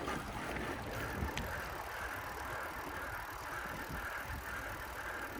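Bicycle rolling along a city street: steady low road rumble from the tyres and frame, with a steady higher-pitched band of noise that comes in about two seconds in.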